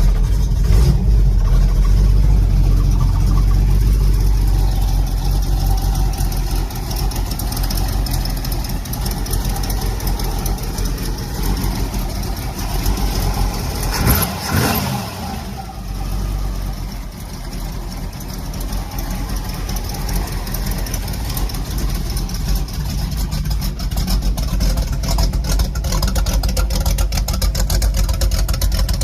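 Cammed small block Chevy V8 with true dual exhaust running steadily after start-up, loud and heavy in the low end. There is a brief change in pitch about halfway through.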